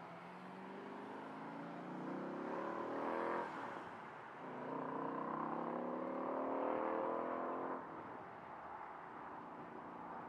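A Shelby Cobra–style roadster's engine accelerating hard through the gears. It revs up through one gear, drops sharply at an upshift about three and a half seconds in, then pulls up through the next gear until the throttle is lifted near eight seconds.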